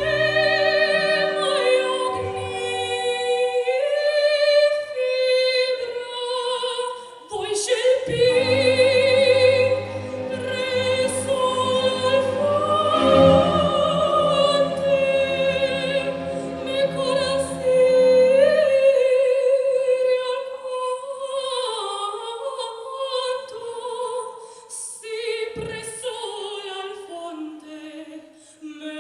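Female soprano singing an operatic aria in long held notes with wide vibrato, over a musical accompaniment. The accompaniment thins out about two-thirds of the way through, leaving the voice nearly alone.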